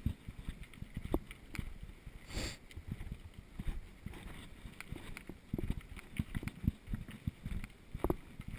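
Mountain bike rattling and knocking irregularly as it rolls over rough ground, with a brief hiss about two and a half seconds in.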